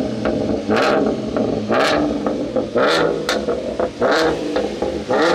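Ford Mustang engine revved repeatedly through its exhaust, about once a second: five quick blips, each rising and falling in pitch.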